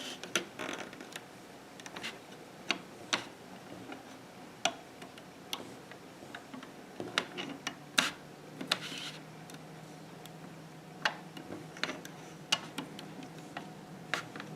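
Irregular light clicks and taps of a plastic loom hook against the plastic pegs of a Fun Loom as rubber bands are looped over, some singly and some in quick clusters.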